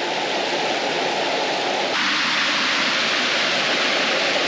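Steady rushing of a fast-flowing creek in high water, a continuous hiss. It grows a little louder over the first couple of seconds, and its tone brightens about two seconds in.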